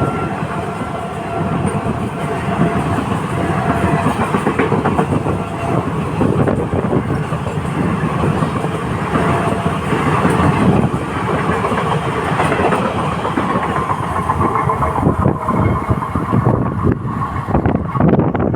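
Electric-hauled express train running on the rails, with a steady rumble and wheels clattering over the rail joints.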